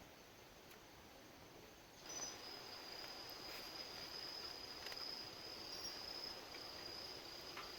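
A steady high-pitched insect trill that starts about two seconds in, over a faint background hiss with a few light clicks.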